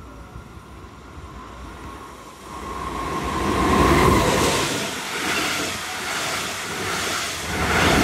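A red electric locomotive hauling double-deck regional coaches runs through the station. It builds from a faint approach to loud as the locomotive passes about four seconds in, with a steady high whine on the approach. The coaches then follow with a loud rush and a regular pulsing as each wheelset goes by.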